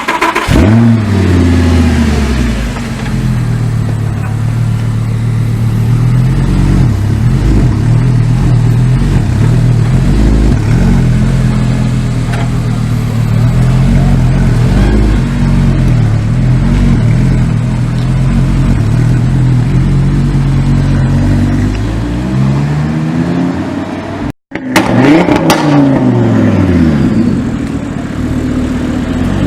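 Sports car engine flaring loudly on start-up, then idling with small rises and falls in revs. After a brief break in the sound about 24 seconds in, the revs rise and fall sharply again before settling back to idle.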